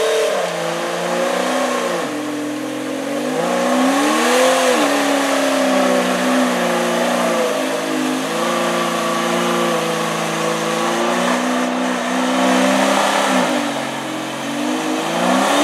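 Off-road Jeep engine revving and pulling under load, its pitch dipping and climbing several times and holding steady through the middle.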